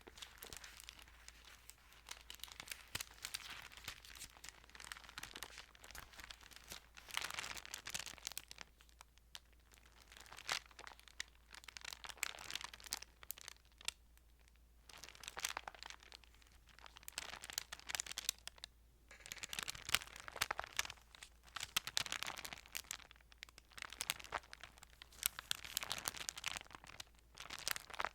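Thin Bible pages being handled, rustling and crinkling in repeated bursts with short pauses between them.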